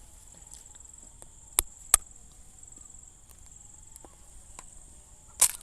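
A steady, high-pitched insect drone throughout, with two sharp clicks about a second and a half in, close together, and a brief louder noise near the end.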